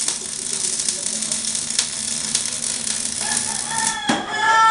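Electric arc welding, a steady dense crackle and sizzle of tiny pops. Near the end a wavering pitched tone joins it.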